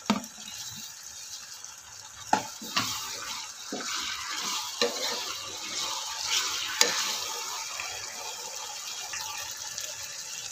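Chopped tomatoes sizzling in hot oil in an aluminium pressure cooker while a steel spoon stirs them, knocking against the pot several times over a steady frying hiss.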